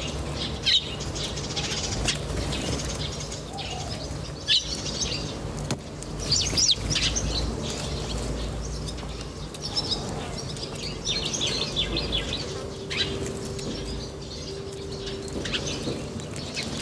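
Small birds chirping, with many short high chirps coming in clusters, and several brief sharp sounds that stand out above them. A low steady hum runs underneath.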